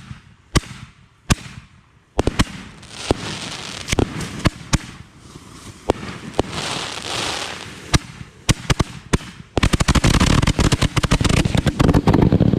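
Fireworks finale: aerial shells and salutes bursting from racks, first as separate loud bangs with crackling between them, then from about nine and a half seconds in a rapid, continuous barrage of reports.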